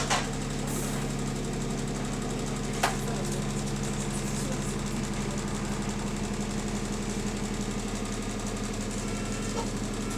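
Diesel engine of a double-decker bus idling steadily with a rattly idle, heard from inside the bus. A couple of sharp clicks, one at the start and one about three seconds in.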